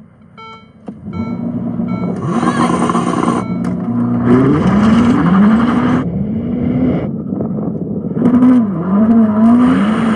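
A few short beeps, then the Ferrari SF90 Stradale's twin-turbo V8 accelerating flat out from a standing-start launch. It revs up and drops back at each quick upshift, with rushing wind and tyre noise.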